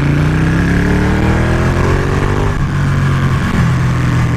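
Ducati 1199 Panigale's V-twin engine accelerating, its pitch rising for about two and a half seconds, then dropping at an upshift and running steadier in the next gear.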